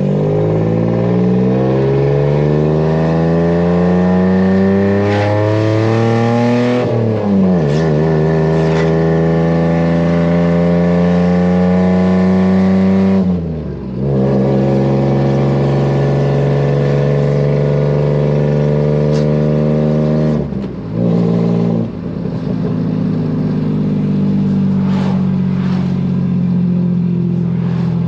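Nissan VQ-series HR V6 engine pulling through a six-speed manual: the revs climb for about seven seconds, drop sharply at an upshift, then hold steady, with short breaks in the engine note at two more shifts or lift-offs.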